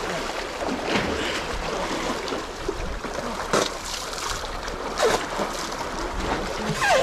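Seawater lapping and sloshing at the waterline, with a few sharper splashes about a second in, midway, and near the end.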